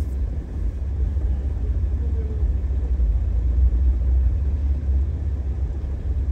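Jeep Wrangler TJ engine idling while stopped, heard from inside the cab as a steady low rumble.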